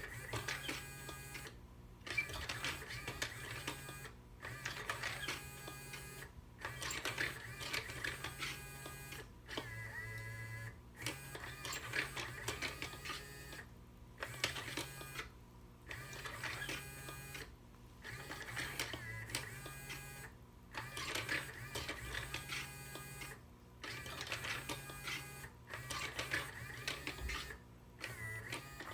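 Small electric motor of an automatic cat-teaser toy running in stretches of about two to three seconds, each broken off by a brief pause, with a mechanical whirring and clicking.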